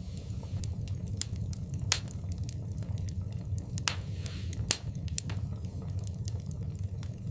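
Wood fire burning in a fireplace: irregular sharp crackles and pops over a low steady rumble, with the loudest pops about two seconds in and just before five seconds in.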